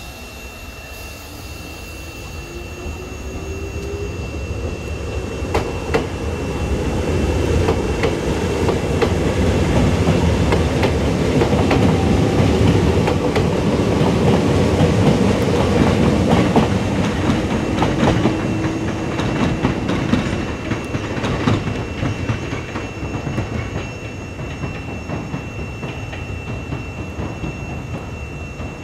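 A Kobe Electric Railway electric commuter train rolls over a single slip switch and its points, wheels clicking and clattering across the frogs and rail joints over a steady rumble. A low hum from the train climbs in pitch as it moves along. The sound builds to its loudest in the middle and fades as the train moves off.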